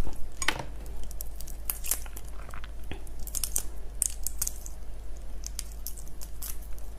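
Scattered small crackles and clicks from handling raw shrimp.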